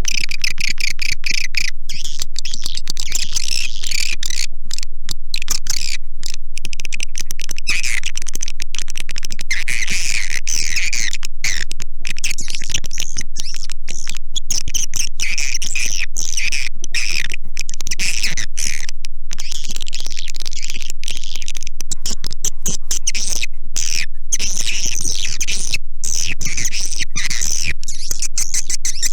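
Swiftlet lure-call track: dense, loud twittering and chirping of swiftlets, continuous with many brief gaps. It is the kind of recording played from speakers in a swiftlet house to call wild swiftlets in to roost and nest.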